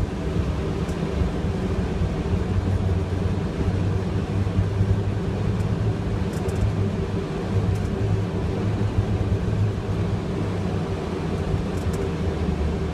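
Boeing 757 jet engines at takeoff power heard from inside the aircraft, a steady low rumble with an even drone throughout.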